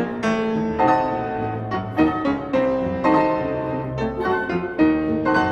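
Background piano music in a classical style, notes struck one after another.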